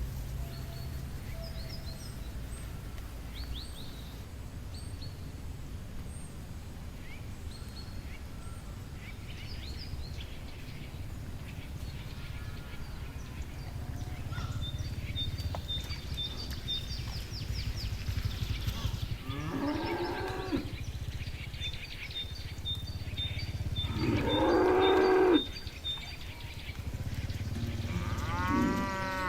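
Cows mooing: three long calls in the second half, the middle one the loudest and cutting off suddenly, over a steady low background rumble with birds chirping.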